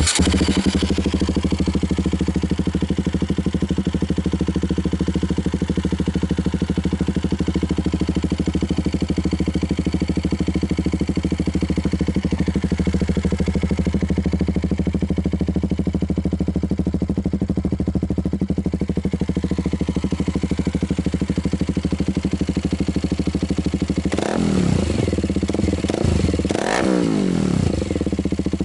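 KTM Duke 200's single-cylinder four-stroke engine fires up and idles steadily through a homemade stainless steel midpipe and a Leovince Cobra aftermarket muffler, with a meaty exhaust note. Near the end the throttle is blipped twice, the revs rising and falling quickly.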